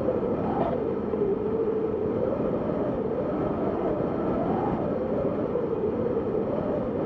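Wind blowing steadily, with a hollow whistling tone that slowly rises and falls every second or two.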